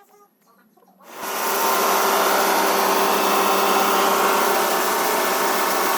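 A power saw running steadily and loudly, starting about a second in with a dense, even machine noise.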